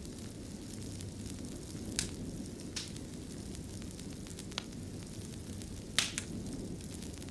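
Wood fire burning in a stone fireplace: a steady low rumble with soft, sharp crackles and pops, about five in all, two of them close together near the end.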